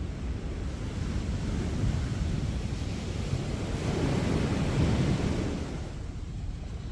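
Sea waves breaking on the beach, a steady wash of surf that swells to a peak about two-thirds of the way through and then eases off.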